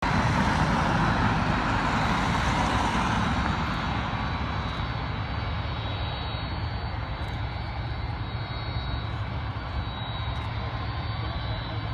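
Jet noise of a three-engine McDonnell Douglas MD-10-30 airliner, loudest in the first few seconds and then easing to a steady lower rumble as it moves away.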